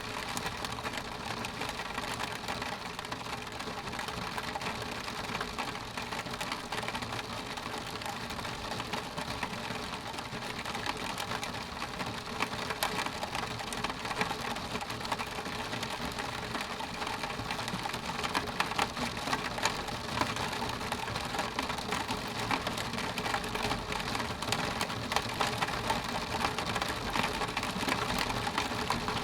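Steady rain on a glass window pane: an even wash of rain with a dense, rapid ticking of drops hitting the glass.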